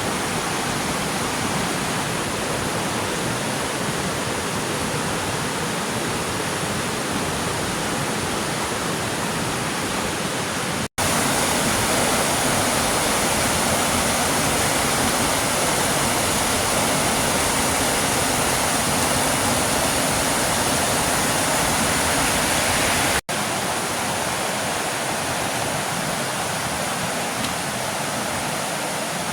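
Waterfall rushing, a steady wash of falling water. It breaks off abruptly twice, about eleven and twenty-three seconds in, and is louder and brighter between those two breaks.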